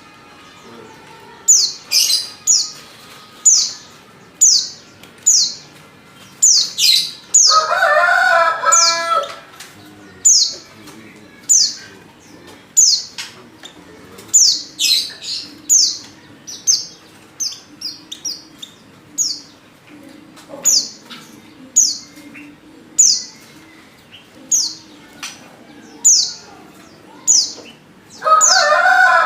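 Female white-eye (pleci) giving short, high chirps that sweep downward in pitch, a bit more than one a second, the calls of a bird in breeding condition calling for a male. Twice, about 8 seconds in and again at the end, a lower, drawn-out call from another bird sounds over them.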